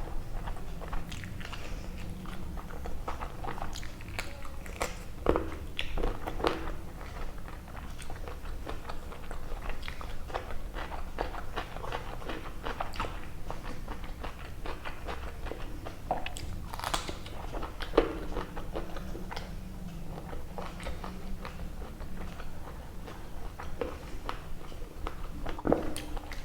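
Close-up mouth sounds of eating chicken curry with rice by hand: steady wet chewing and smacking with frequent small clicks and an occasional crunch.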